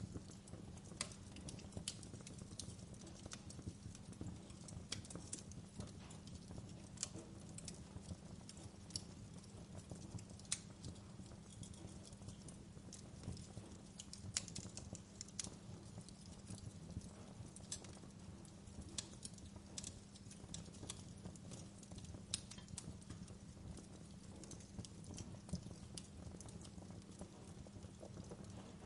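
Fireplace wood fire crackling softly: irregular small pops and snaps over a low steady rumble.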